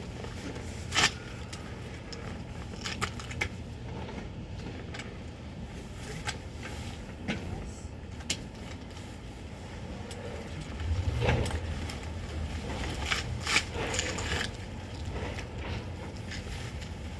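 A vehicle engine running with a steady low rumble that gets louder about eleven seconds in. Scattered short clicks and knocks sound over it.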